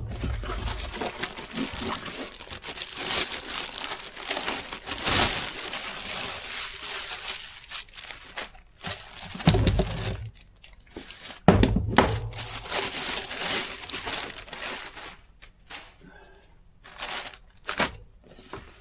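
Product packaging being unwrapped: a plastic bag and cardboard crinkling and tearing without a break, with two dull thumps midway, a couple of seconds apart.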